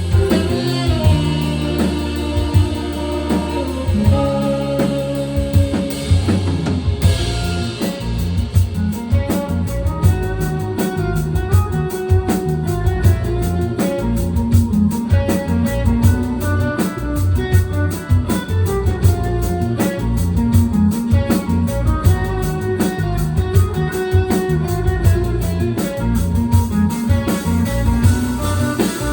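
A band playing with guitar and drum kit, with little or no singing. A lighter passage of guitar and bass gives way about seven seconds in to the full drum kit playing a steady beat.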